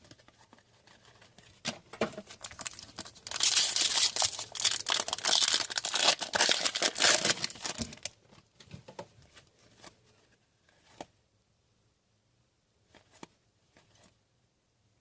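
A 2016-17 Upper Deck Series 1 hockey card pack's wrapper being torn open and crinkled, a dense crackling from about three seconds in to about eight seconds in. A few light clicks come before it and after it, from the cards and wrapper being handled.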